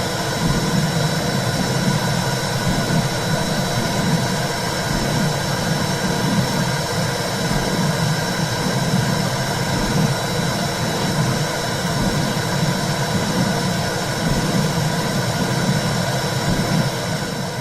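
Womb sound for soothing a baby: a loud, steady, low whooshing rumble with a faint constant high tone over it.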